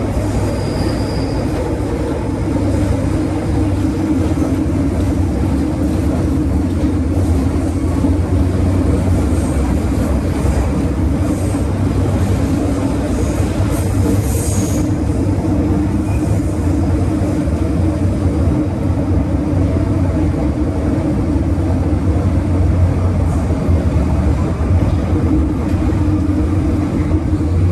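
MTR M-Train electric metro car heard from inside while running: a steady loud rumble of wheels and running gear on the track, with a few faint brief high squeaks near the middle.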